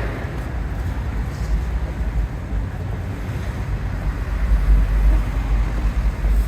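Wind buffeting the microphone: a fluctuating low rumble that swells about four to five seconds in, over background city street traffic noise.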